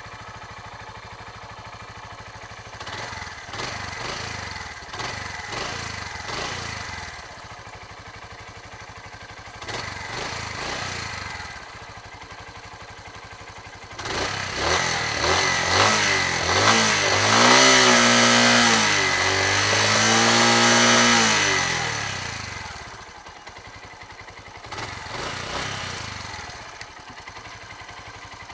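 2009 Suzuki TU250X's fuel-injected single-cylinder engine idling and being revved. There are a few short blips in the first dozen seconds, then a longer rev about halfway through that climbs, holds high for several seconds and drops back to idle, then one more short blip.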